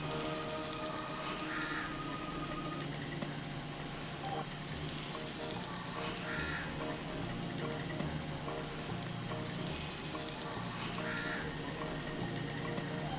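Food sizzling steadily as it fries in a miniature karahi on a tiny stove. The hiss swells and eases every few seconds.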